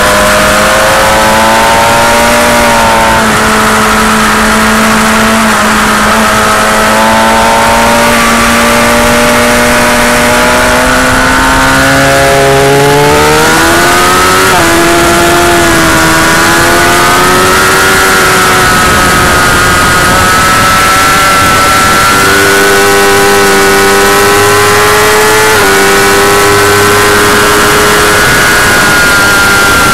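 Motorcycle engine at high revs, heard from on board at speed, its pitch climbing and dropping with throttle and gear changes, with heavy wind noise. It is very loud throughout.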